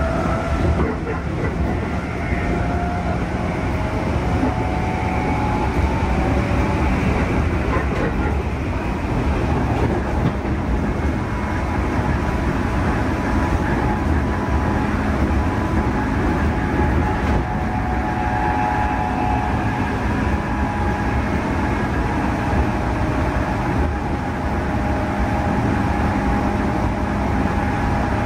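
Running sound inside a JR East 211 series electric commuter car under way at speed: steady rumble of wheels on rails, with a faint whine.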